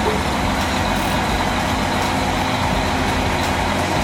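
A crane's engine running steadily at an even speed.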